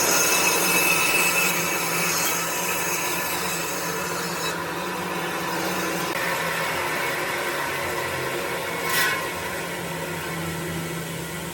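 Electric power tool running against wood: a steady motor hum under dense grinding and rasping noise. The sound shifts abruptly about four and a half seconds in.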